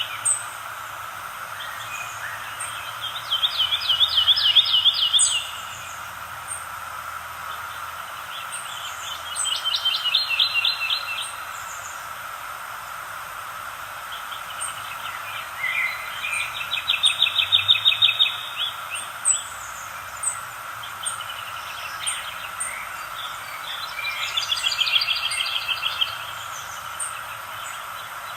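Songbird singing a trilled phrase of rapid repeated notes, about four times, each lasting a couple of seconds, with fainter high chirps from other birds over a steady background hum of nature ambience.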